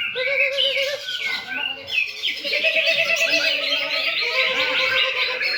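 Several cucak ijo (green leafbirds) singing at once: a dense, overlapping chorus of high chirps, warbles and trills with no break.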